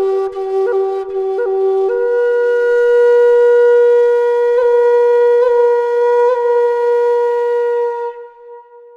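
Solo flute playing a slow intro melody: a low note ornamented with quick grace-note flicks, then a step up to a long held note with a few more flicks, fading away near the end.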